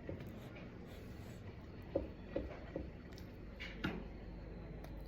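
Soft chewing while eating a meal of rice and pork: three soft chews about 0.4 s apart around two seconds in, then a single short click.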